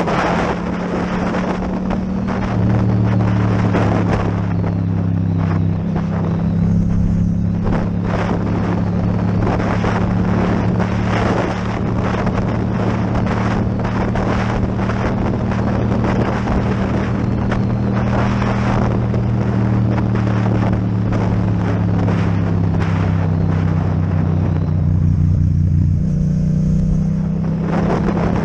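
Yamaha MT-07's parallel-twin engine through an Akrapovic exhaust, running at a steady cruise with wind rushing over the microphone; the lower engine note drops away near the end.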